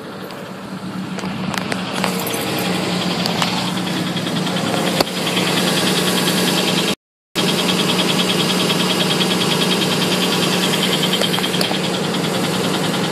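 1997 Subaru Legacy Outback's flat-four engine idling just after a cold start, with a fast, even knocking over the running, which the owner takes for a knock from the lower end. It gets louder over the first couple of seconds, and the sound cuts out for a moment about seven seconds in.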